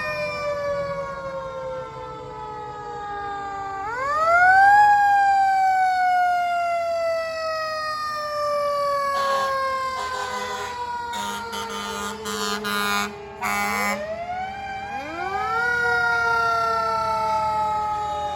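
Fire truck siren winding up quickly, then slowly sliding down in pitch for about ten seconds, and winding up again near the end. A series of short blasts sounds over the falling siren in the middle.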